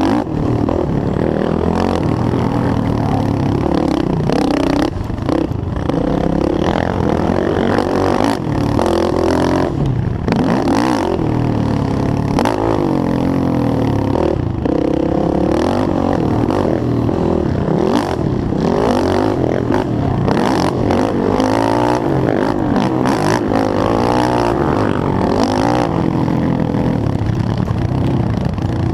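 Yamaha YFZ450R race quad's single-cylinder four-stroke engine running hard at racing speed, revving up and down again and again through the gears, with repeated clatter and knocks from the ride over rough ground.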